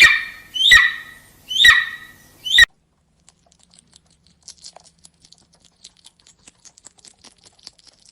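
An animal calling four times in quick succession, each call a sharp, falling cry about a second apart, cut off abruptly after the fourth; then only faint, irregular light ticking and pattering.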